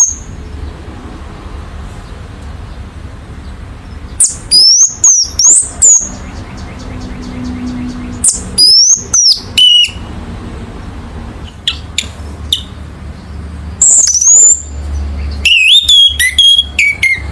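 Orange-headed thrush singing: four short, loud phrases of quick sweeping high whistles, a few seconds apart, over a steady low hum.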